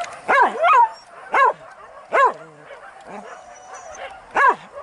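Hunting dog barking in short, high yelps, about six of them at irregular spacing, each rising then falling in pitch.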